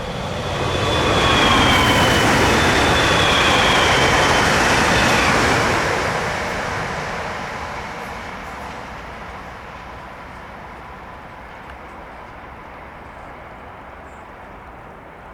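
Talent 1 electric multiple unit passing at speed: a rush of wheel and rail noise that peaks within the first six seconds, with a whine that drops in pitch as it goes by, then fades slowly as the train moves off.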